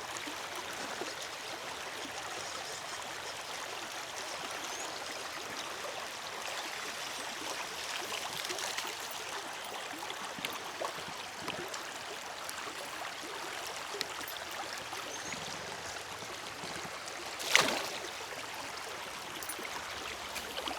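River water running over the creek bed, a steady rushing trickle. About three seconds before the end comes one short, loud knock.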